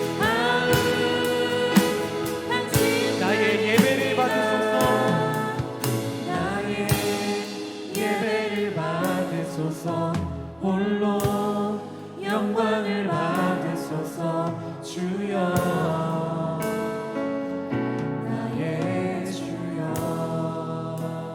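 Worship music: a Christian gospel song sung by several voices over instrumental accompaniment.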